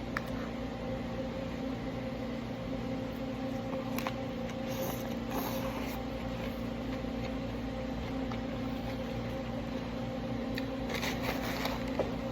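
A steady low electrical hum, like a fan or appliance running, with a few faint clicks and rustles, near the start, around the middle and near the end.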